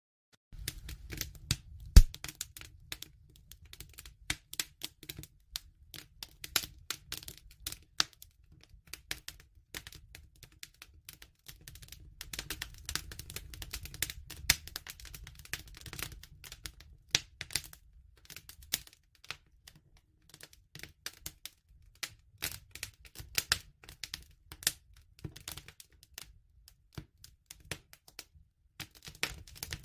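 Wood fire crackling: irregular sharp pops and snaps over a low, soft rumble of burning, starting about half a second in after a brief silence.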